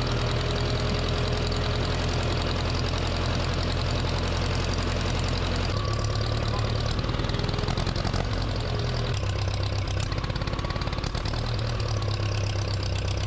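Gasoline engine of a 1956 Case 420B backhoe running steadily, now firing again after a bent washer under its distributor rotor was flattened. Its note shifts about six seconds in and again about nine seconds in.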